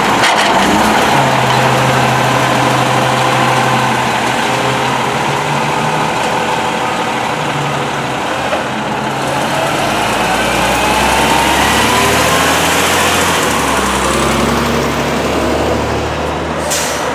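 Diesel engine of a Volvo WXLL front-loader garbage truck running steadily, with faint rising whines about ten seconds in.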